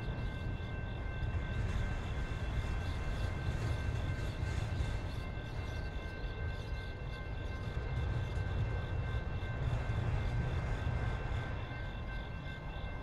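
Empty autorack freight cars rolling past on the rails, a steady low rumble of wheels and trucks, with a faint steady high ringing over it.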